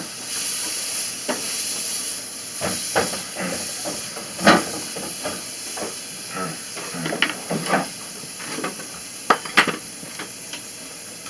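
Butter sizzling in a frying pan hot enough to smoke, as flour tortilla quesadillas fry in it: a steady hiss with scattered sharp crackles and clicks.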